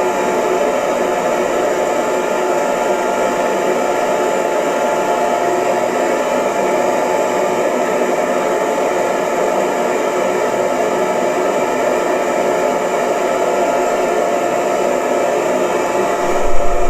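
Electric hair dryer running steadily: an even rush of air with a faint steady motor whine. Near the end there is a brief low thump.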